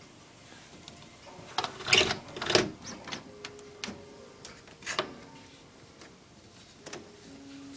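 A few irregular sharp clicks and taps, the loudest cluster about two seconds in and single ones later, over a faint steady hum.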